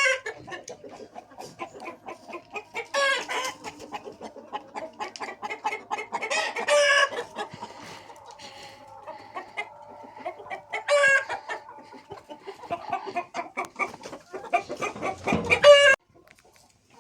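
Chickens clucking, with a rooster crowing and loud calls standing out every few seconds. The sound cuts off abruptly near the end.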